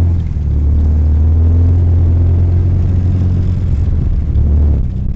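Rally car's engine pulling hard at steady revs with a deep drone, heard from inside the cabin; the drone cuts off sharply near the end as the revs drop.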